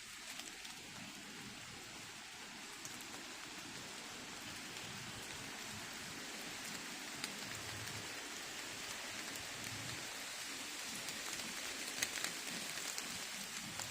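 Water dripping from the rain-soaked woods after a storm: a steady, rain-like patter that grows slightly louder, with a few sharper drips standing out near the end.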